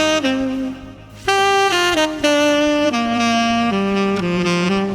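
Saxophone playing a short melody of held notes that step between pitches, with a brief pause about a second in.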